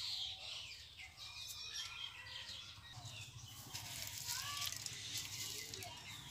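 Small birds chirping and calling in short, scattered notes, over a low steady hum that grows stronger about halfway through.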